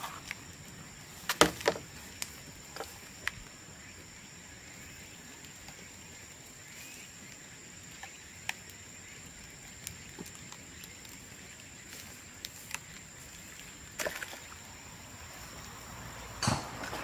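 Bamboo burning in an open bonfire, crackling with scattered sharp pops: a cluster of loud cracks about a second and a half in, single pops through the middle, and more near the end.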